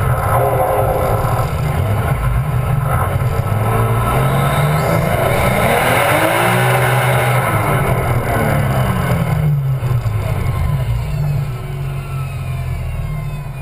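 Car engine revving hard through a drift, its pitch climbing to a peak a little past the middle and falling away, with a steady hiss of tyre and road noise; the engine eases off over the last few seconds.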